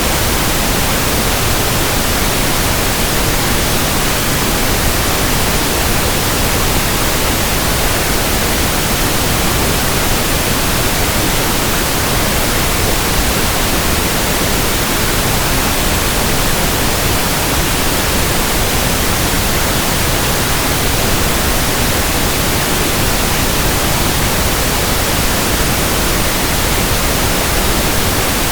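Pink noise: a steady, unchanging hiss spread evenly across the whole range from deep to high.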